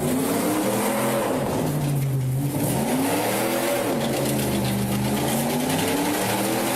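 Ram pickup truck's engine revving hard over and over, its pitch rising and falling in repeated surges, which the watcher guesses is the driver's foot stuck on the pedal.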